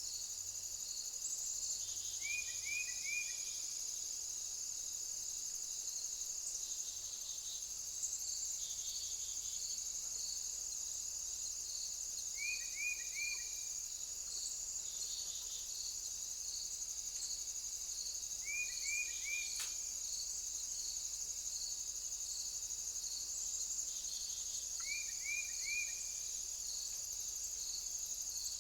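Insects chirring steadily at a high pitch, with a soft pulsing in the chorus. Four times, a bird gives a short call of three quick falling notes.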